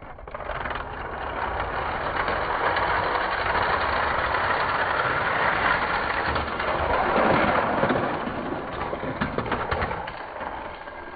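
Two Hot Wheels die-cast cars rolling down a plastic track: a steady rolling rattle that builds over the first seconds and dies away near the end, with a run of clicks shortly before it fades.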